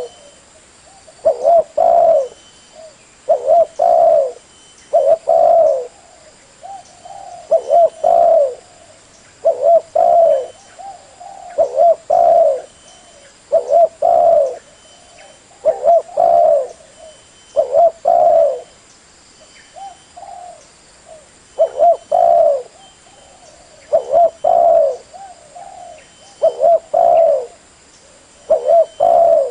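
Spotted dove cooing: short phrases of two or three low coos, repeated about every two seconds. This is a call used to lure wild doves.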